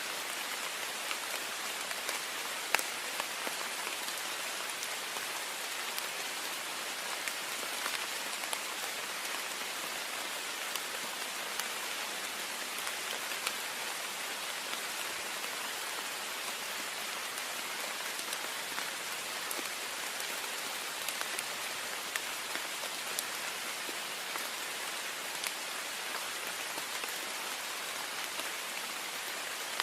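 Heavy rain pattering steadily on a window pane, a dense even hiss with scattered sharper drop ticks.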